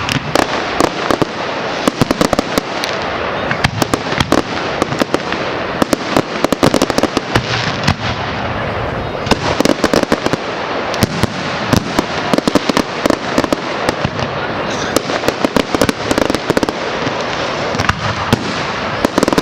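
Firework display going off: a dense, continuous barrage of bangs and crackling shells bursting in rapid succession.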